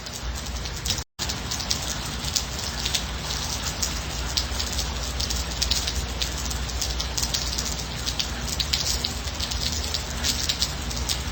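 Steady gentle rain: an even hiss with many separate drops hitting. The sound cuts out completely for a split second about a second in.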